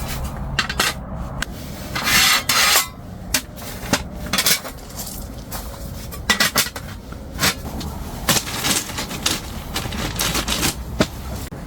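Camping gear being handled and set down: irregular clicks, knocks and clatters with scraping, rustling stretches in between.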